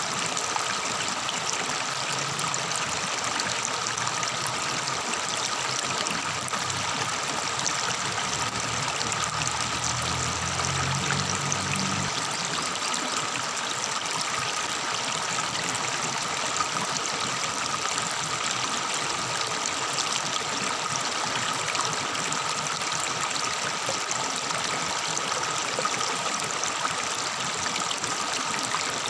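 Tropical forest stream babbling and trickling steadily over rocks. A faint low hum sits underneath for roughly the first twelve seconds.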